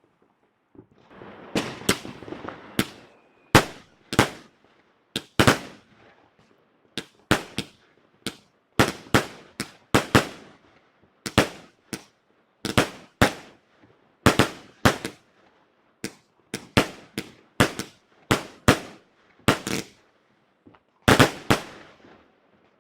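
Fireworks going off: a long run of sharp bangs, about one or two a second and some in quick pairs, each echoing briefly, with a spell of dense crackling about a second in.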